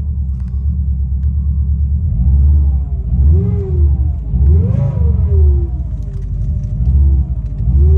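Subaru EJ205 turbocharged flat-four engine revved in repeated short throttle blips, the pitch rising and falling about five times over a steady rumble. The engine has an abnormal noise whose source has not yet been found.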